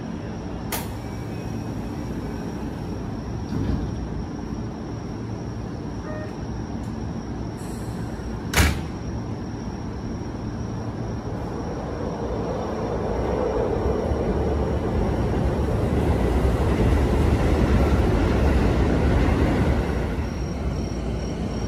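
Keio 9000-series electric train at a station platform: steady rumble, with a light knock about a second in and a sharp bang about eight and a half seconds in. From about twelve seconds a low train rumble swells, peaks and eases off, as the train pulls away.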